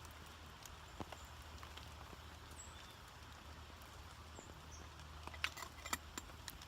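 Wood campfire crackling quietly, with scattered small pops, a few close together near the end, and one loud sharp pop at the very end.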